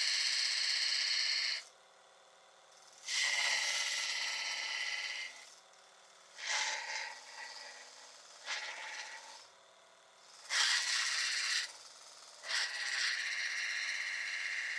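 Steel chisel being ground on a mini belt sander: a rasping, whining grind each time the chisel is pressed to the running belt, in about five passes of one to three seconds with quieter gaps between.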